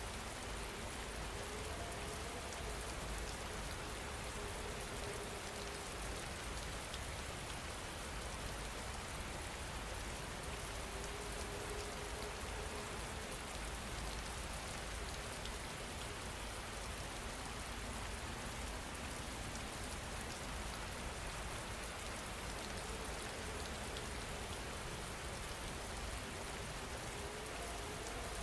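Steady rain falling, an even hiss of drops that does not let up, with a faint low tone that comes and goes a few times.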